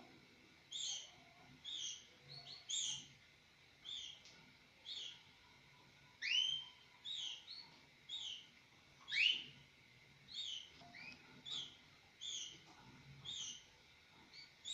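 Mosaic canaries chirping: short high chirps repeating about once a second, with two louder sweeping calls about six and nine seconds in.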